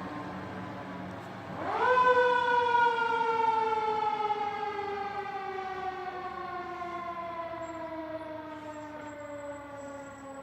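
Fire truck siren wailing: a falling tone, then about a second and a half in it winds up quickly and falls away slowly in pitch.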